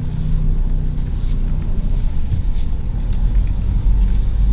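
Ford Focus engine running, a steady low rumble heard from inside the car's cabin.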